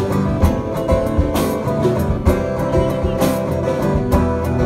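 Instrumental break of a country-bluegrass band song: plucked acoustic guitar and banjo over a steady beat, no singing.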